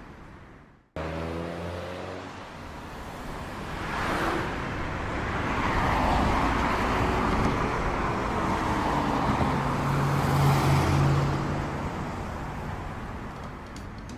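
Road traffic noise: vehicles passing, starting suddenly about a second in and swelling to its loudest near ten seconds before easing off.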